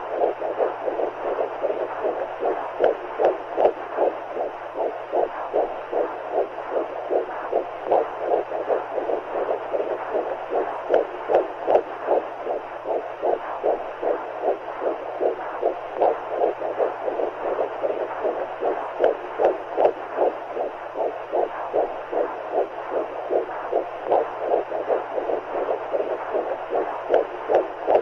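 Womb sound for calming a baby: a steady whooshing of fluid noise with a fast, rhythmic heartbeat pulsing through it without a break.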